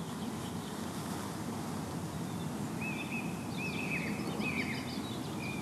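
Outdoor evening ambience: steady low background noise, with a bird calling a few short repeated phrases from about three seconds in.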